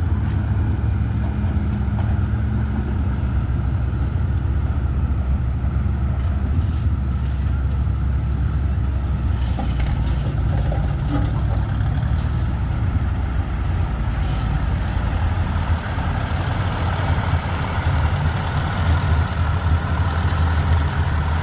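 Vintage farm tractor engine running steadily under load during a pull, a smooth, even purr.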